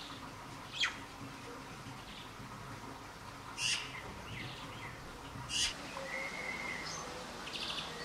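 Wild birds calling: three short, sharp calls spaced about two seconds apart, then a brief level whistle and a quick rattling trill near the end.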